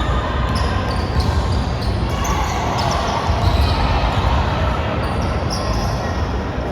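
Basketball game play in a gym hall: a basketball bouncing on the court, with short high squeaks throughout.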